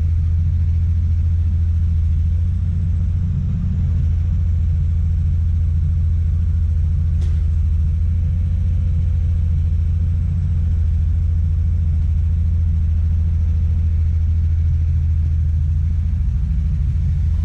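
Excavator's diesel engine running steadily under work, a constant low rumble, with one sharp click about seven seconds in.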